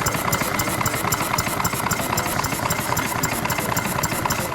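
Homemade model sleeve-valve engine, Knight-type with dual sleeves, running steadily with a rapid, even firing beat.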